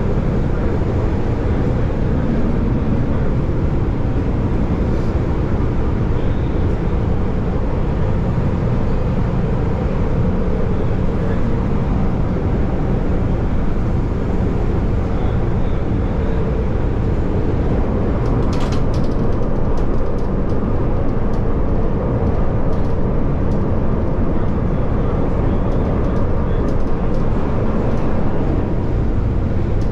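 CTA Yellow Line rapid-transit train running along the track, a steady heavy rumble of wheels on rail heard from inside the lead car, with a scatter of short sharp clicks from a little past halfway.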